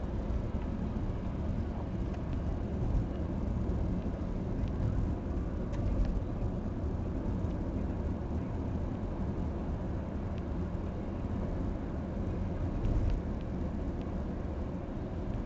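Heavy diesel construction machinery running steadily, a low continuous rumble with a few faint clicks over it.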